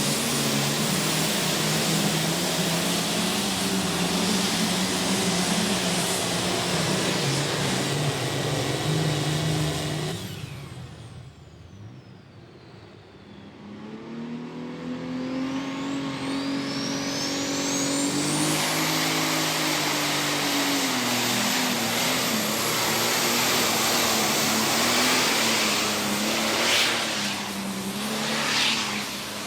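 Diesel super stock pulling tractor engine running hard at high revs. About ten seconds in the engine note drops away and a high turbo whine winds down, then the whine and the engine climb back up and run steady again.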